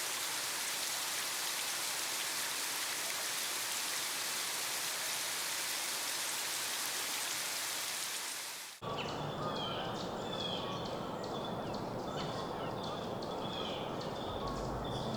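Steady rain falling, an even hiss that stops abruptly about nine seconds in. After it comes a quieter steady hiss with short high chirps.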